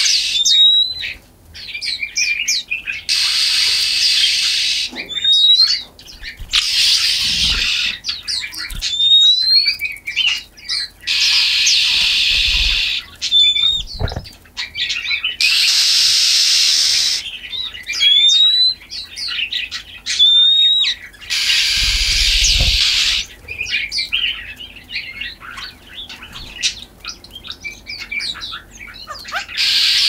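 Small songbirds calling: bursts of dense, raspy chatter about a second and a half long recur every few seconds, mixed with short rising whistled notes and many quick chirps. A few soft low thumps are heard in between.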